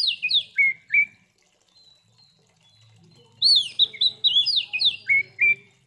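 Oriental magpie-robin (kacer) singing: a phrase of quick, loud, downslurred whistles ending in two lower notes, then a pause, and about three and a half seconds in a second, similar phrase.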